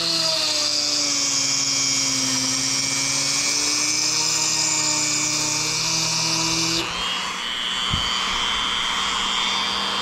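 Handheld Dremel rotary tool running at high speed, a steady whine whose pitch shifts as it bears on the work, changing noticeably about two-thirds of the way through.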